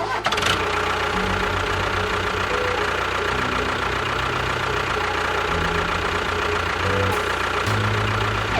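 An engine running steadily, its low chugging pulse speeding up and slowing down in places.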